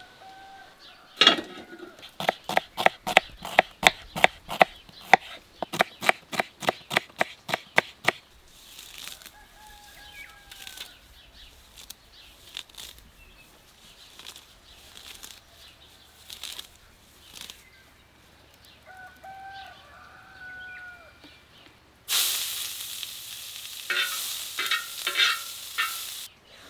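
A fast run of sharp knocks, about four a second, for some six seconds, then a few bird calls. Near the end comes a few seconds of loud rushing noise with fluttering pulses.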